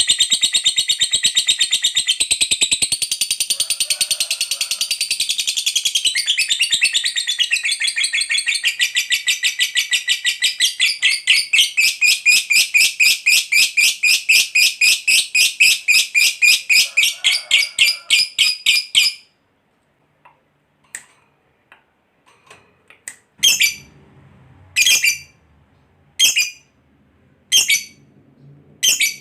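Lovebird's long 'ngekek' chatter: a rapid, shrill, unbroken stream of high calls that slows into distinct pulses and stops abruptly about nineteen seconds in. After a short pause come single sharp chirps about every second and a half.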